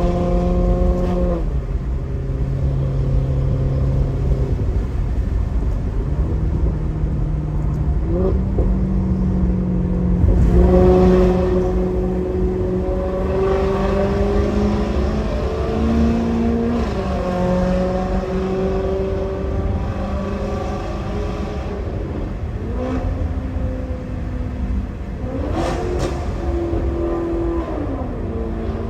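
2008 Maserati GranTurismo's 4.2-litre V8 running through a Kreissieg aftermarket exhaust. Its engine pitch holds, then steps up and down several times as the revs rise and fall, loudest about ten seconds in.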